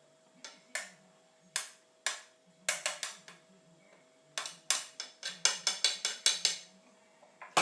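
A utensil clicking and tapping against cookware as chopped chicken pieces are spooned onto rice: sharp irregular clicks, sparse at first and coming quickly in the second half.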